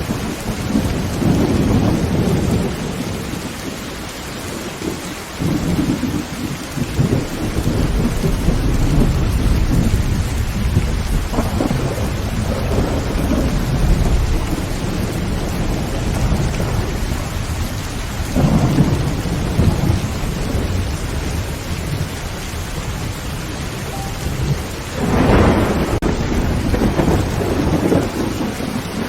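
Heavy rain falling steadily on a tin roof, with several rolls of thunder rumbling through, the loudest starting about three-quarters of the way in.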